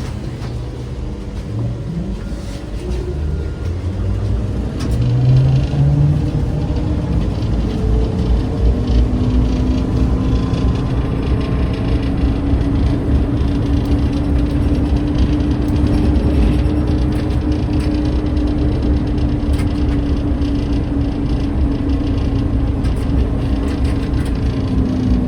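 ZiU-682G-016.02 trolleybus on the move: steady road rumble that grows louder about five seconds in, with the electric traction motor's whine coming in soon after, a steady tone rising slightly and then held.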